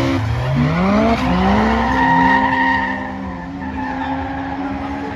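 Drift car being driven hard: its engine revs climb, then hold steady while the tyres skid and squeal, and the sound fades after about three seconds.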